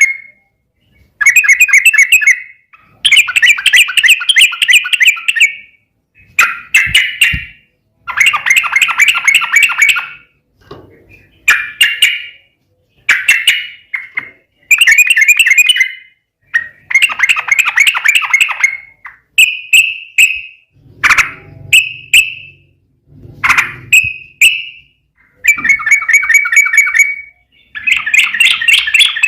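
Yellow-vented bulbul (trucukan) singing in fast, chattering phrases: about a dozen loud bursts of one to three seconds, each followed by a short pause.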